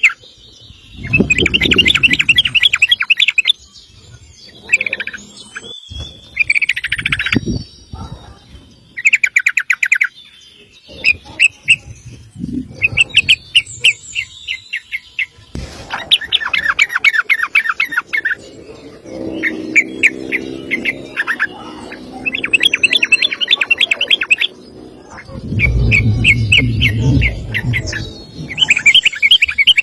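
Yellow-vented bulbul (trucukan) singing its long, rapid rolling 'ropel' song in repeated bursts of fast chattering notes. A low rumble sounds twice, once near the start and once near the end.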